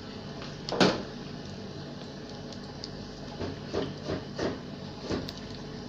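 Chicken deep-frying in hot oil, a steady sizzle, with one sharp knock about a second in and a few lighter knocks later on.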